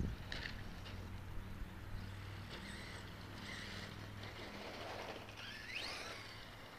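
Radio-controlled stadium truck running on the track, its motor giving short high whines, with one whine rising steeply in pitch about six seconds in as it accelerates.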